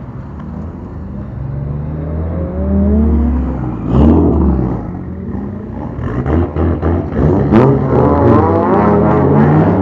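Car engines on bosozoku-style classic Japanese cars revving as the cars roll out, growing louder at first, then rising and falling in pitch in repeated blips. A sharp loud crack comes about four seconds in.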